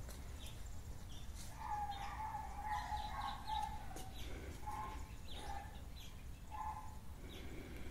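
Birds calling: a drawn-out wavering call lasting a couple of seconds, then three or four short calls and scattered brief high chirps, over a steady low background rumble.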